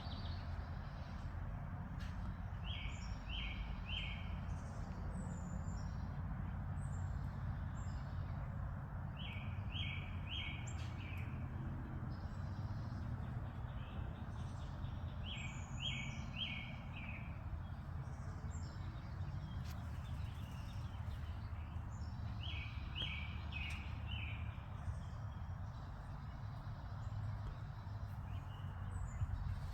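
Wild birds calling: one bird repeats a short phrase of three or four quick notes about every six or seven seconds, and other birds chirp higher in between, over a steady low rumble.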